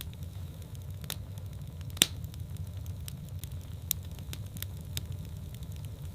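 Wood fire burning in a fireplace: a steady low rumble of flames with scattered sharp crackles and pops, the loudest pop about two seconds in.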